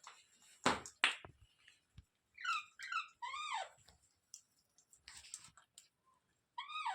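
Pet parrot calling: two short harsh squawks about a second in, then a quick run of three shrill chirping calls in the middle and one more near the end.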